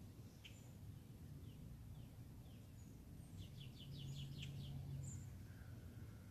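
Faint birdsong: scattered short high chirps and a quick run of about seven notes a little past the middle, over a low steady rumble.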